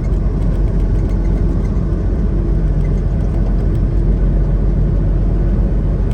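Semi truck's diesel engine and road noise while driving: a steady, low drone.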